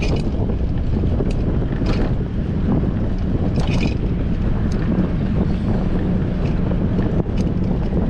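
Strong wind rushing and buffeting the microphone of a bicycle-mounted action camera while riding, a steady low rumble with a few brief higher sounds mixed in.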